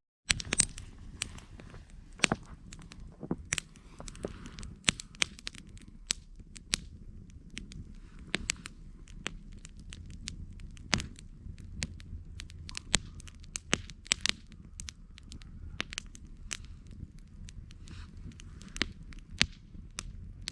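Wood campfire crackling: irregular sharp pops and snaps, several a second, over a low steady rumble. The sound drops out for a split second at the very start.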